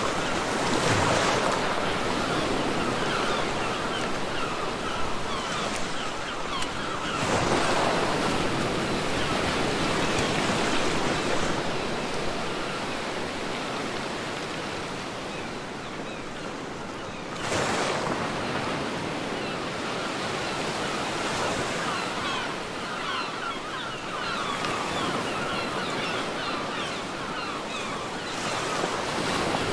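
Ocean surf on a beach: four waves break, spaced several seconds apart, with the steady wash of water between them.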